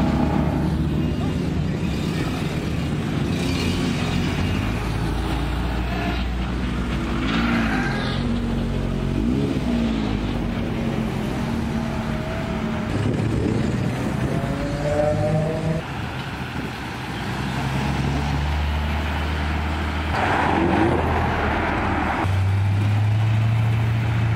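Modified cars driving slowly past one after another, engines running and revving: a Datsun S30 Z-car, a lowered Volkswagen Passat estate, then a BMW E92 M3 with its V8.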